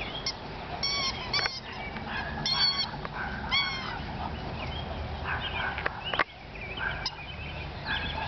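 A squeaky chew toy squeaking in a string of short, high-pitched squeaks as a bulldog puppy bites and mouths it. A single sharp knock about six seconds in.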